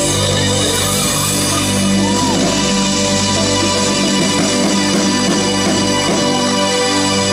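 Live 1980s new-wave rock band holding a long, steady chord of keyboards and guitar at loud volume, with a few faint shouts from the audience over it.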